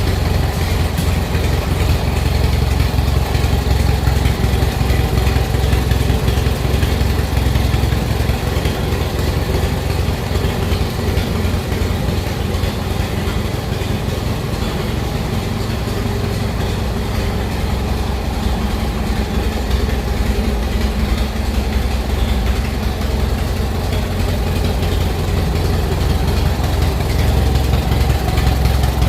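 An engine idling steadily with a low, even pulse, starting abruptly at a cut.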